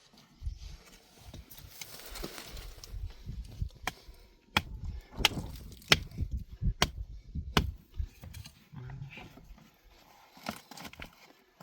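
Irregular low thuds with a run of about six sharp knocks through the middle.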